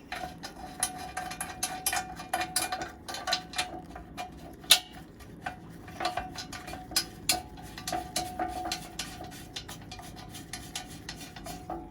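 Irregular metallic clinks and knocks of car body parts and hand tools being handled while front bumper support pieces are hooked into place, with one sharper knock about halfway through.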